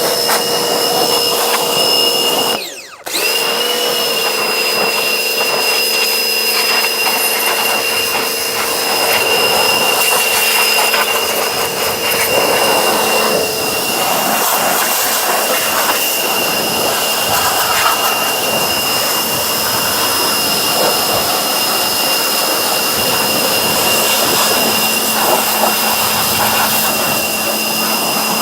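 Pressure washer running with a steady high whine and hissing water spray. It stops briefly about three seconds in, then starts again.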